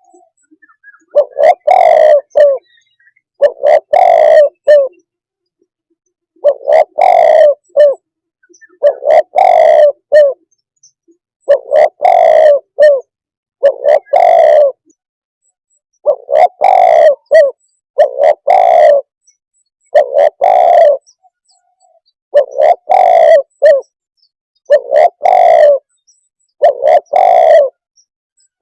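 Spotted dove cooing: a loud, low phrase of two or three notes, repeated about a dozen times at roughly two-second intervals with short silences between.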